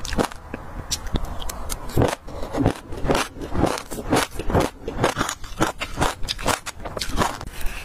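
Close-miked chewing of a mouthful of passion fruit seeds: crunches that crackle, a few a second, coming irregularly, mixed with a metal spoon scraping in a plastic tub.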